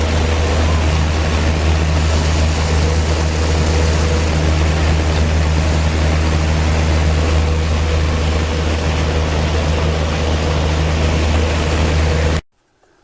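Corvair box fan with aluminum blades running: a steady motor hum under the rush of air from the blades. It cuts off abruptly near the end.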